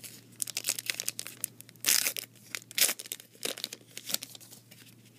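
A trading-card pack wrapper being torn open and crinkled by hand: a run of sharp crackles, with the loudest tears about two seconds and three seconds in.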